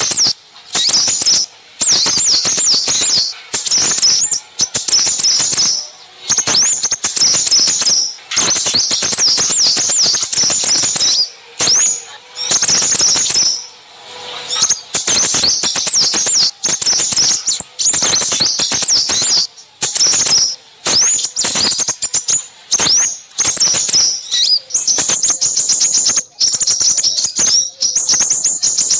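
A dense, busy chatter of small songbirds: rapid high chirps and trilling calls that run in long runs broken by short pauses. It is a lure recording of agitated small birds.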